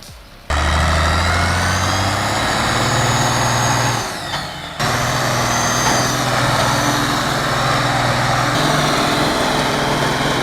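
Farm tractor's diesel engine running hard, starting abruptly, its pitch rising slightly, dropping briefly about four seconds in, then running steadily again.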